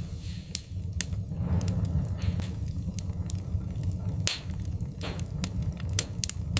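Wood fire burning in a fireplace: irregular sharp crackles and pops, several a second, over a steady low rumble of the flames, with a few brief hisses.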